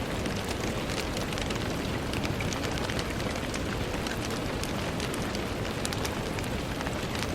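Steady rain falling on a window, a continuous hiss with many small drops ticking on the glass.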